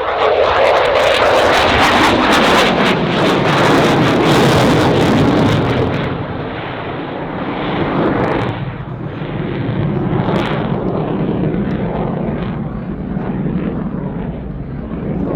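Dassault Rafale C fighter jet, powered by two Snecma M88-2 afterburning turbofans, passing loud and close with harsh crackling jet noise for the first six seconds. It then eases to a lower, wavering rumble as the jet pulls away.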